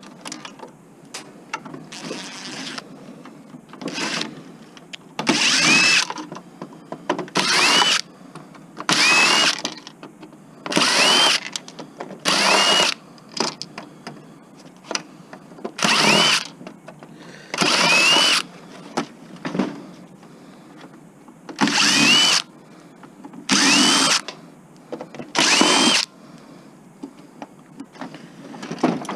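Cordless power drill driving out screws in about a dozen short bursts, each under a second or so long with a pause between. Each burst opens with a rising motor whine as the drill spins up.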